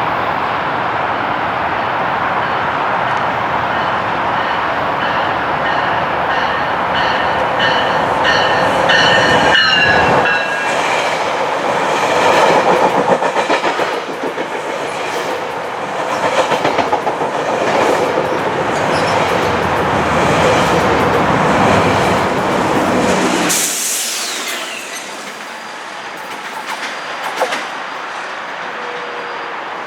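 VIA Rail passenger train running through the station: a steady rumble and wheel clatter on the rails. A high-pitched tone drops in pitch about ten seconds in. The rumble falls away suddenly about two-thirds of the way through, leaving quieter rail noise.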